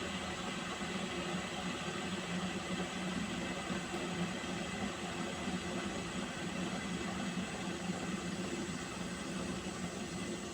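Water boiling: a steady rushing hiss with a low hum beneath it.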